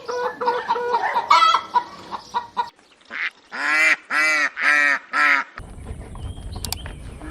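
Domestic hens clucking in quick short calls, followed by a goose or duck calling five times in a row, about half a second per call. A low rumbling noise comes in near the end.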